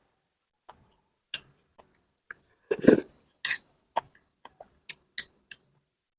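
Close-miked eating sounds: scattered wet clicks and smacks of a mouth chewing chicken porridge, with a louder burst about three seconds in.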